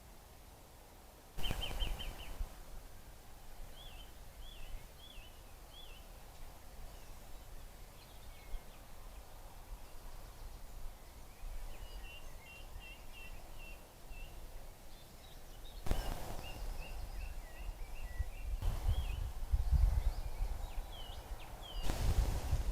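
Wild songbirds calling, several short series of high chirping notes, over quiet outdoor background noise. A low rumbling noise comes in near the end.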